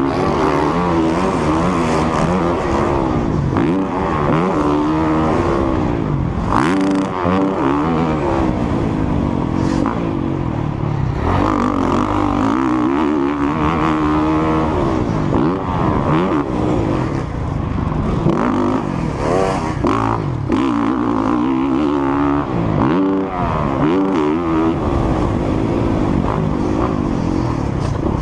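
Motocross bike engine running hard under riding, revving up and easing off again and again, its pitch climbing and falling every second or two.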